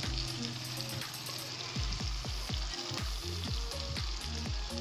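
Chicken, tomato and spice masala sizzling in oil in a pan as it is fried down (bhuna). Background music with a steady low beat plays over it.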